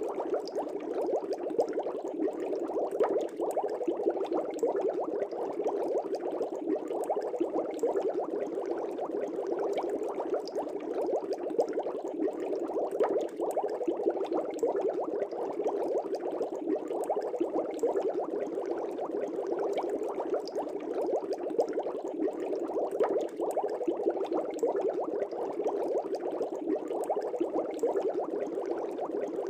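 Aquarium air bubbles rising and breaking at the surface of a fish tank: a steady, dense bubbling with many small pops.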